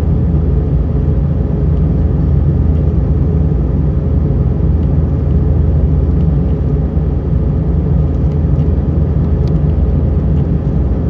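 Steady cabin noise of an Airbus A320 in flight, heard inside the cabin: a constant low drone of engines and airflow.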